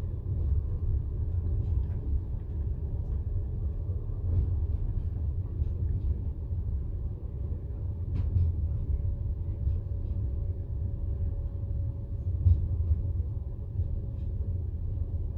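Passenger train carriage running along the track, heard from inside: a steady low rumble of the wheels on the rails with a few faint clicks and knocks now and then.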